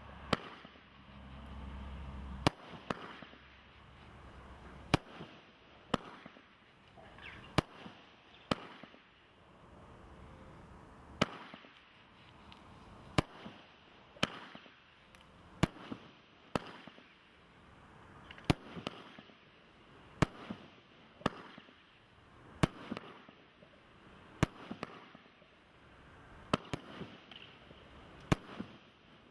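The Leveller 98-shot firework barrage cake firing: a steady run of sharp bangs, roughly one every second or so, with a hiss between them.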